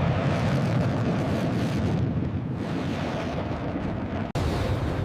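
Fighter jet engines roaring as a dramatic sound effect: a steady, heavy low rumble with a hard cut about four seconds in, after which the roar goes on.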